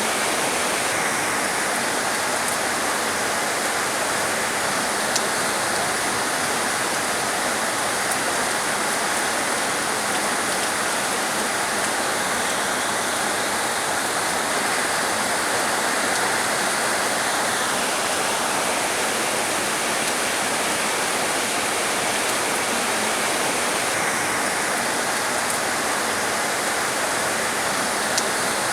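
Heavy rain falling in a steady, dense hiss, with no letup.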